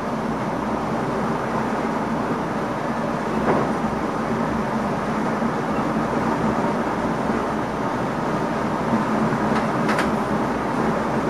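Steady running noise inside the cab of an NS ICM electric multiple unit under way: an even rumble of wheels on rail, with a faint knock about three and a half seconds in and another near the end.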